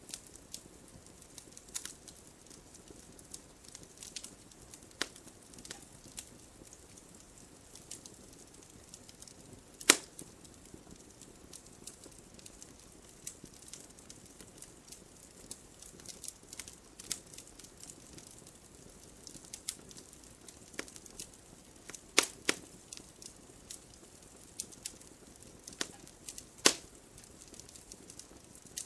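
Campfire burning with a low steady hiss and scattered sharp crackles and pops from the wood, the loudest pops about ten seconds in, twice near twenty-two seconds, and once near twenty-seven seconds.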